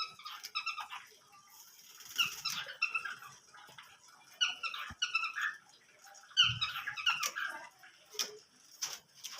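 Small cage birds calling in bouts of quick, high chirps, several in a row, about four bursts with short pauses between.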